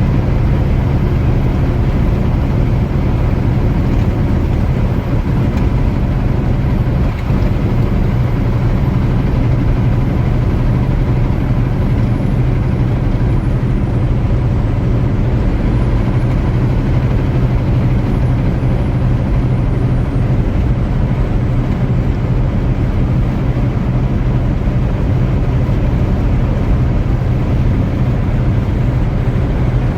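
Semi-truck cab at highway speed: a steady, unbroken diesel engine drone with tyre and road noise.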